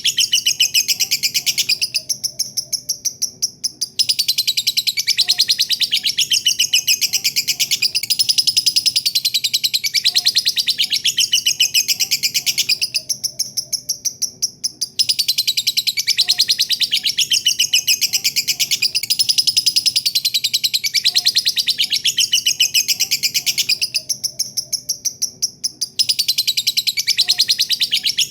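Lovebird's long 'ngekek' song: a rapid, shrill chatter of many high notes a second, running for about nine seconds at a stretch, with a short quieter lull between runs.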